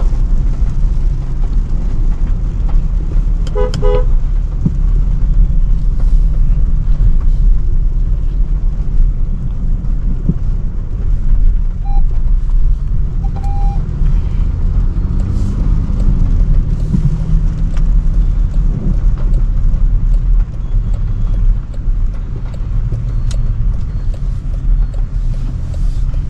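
Steady low rumble of a Range Rover Sport driving in city traffic, with a car horn honking briefly about four seconds in and two short, higher horn beeps around twelve and thirteen seconds in.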